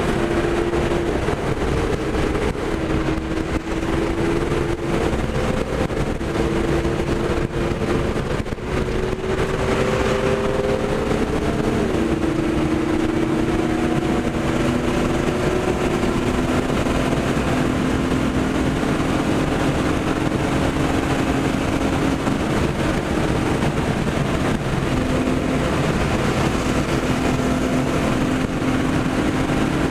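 BMW 325i's straight-six engine heard from inside the cabin, running hard at speed over a heavy rush of tyre and wind noise. The engine note climbs slowly, drops sharply at a gear change about eleven seconds in, then holds steady.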